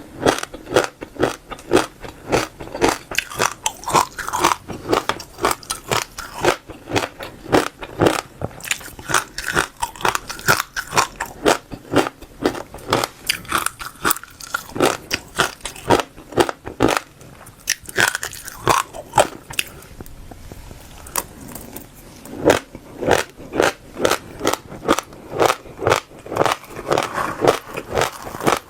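Close-miked chewing of crunchy passion fruit seeds crushed between the teeth: rapid crisp crunches, several a second, with a brief softer lull about twenty seconds in.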